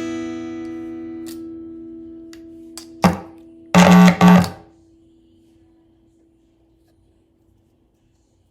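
Martin GPCPA4 acoustic-electric guitar: a chord strummed and left ringing, then three sharp strums around three to four and a half seconds in, after which a single note rings on and slowly fades out.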